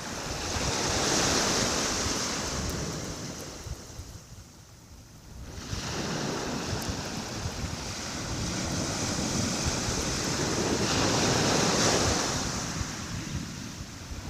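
Calm sea: small waves washing onto the shore in two swells of surf, with a short lull between them about four to five seconds in. A low, uneven rumble of wind on the microphone runs underneath.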